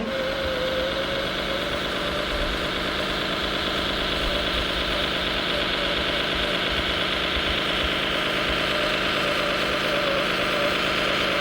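Radio-controlled scale model machine running steadily: a wavering whine over a low rumbling drone, starting abruptly.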